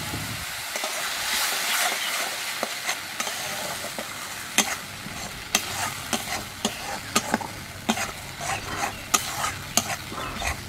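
Cashew-raisin paste sizzling in hot oil as it is stirred into a frying onion masala in a metal kadai. A metal spatula scrapes the pan and clicks against it many times.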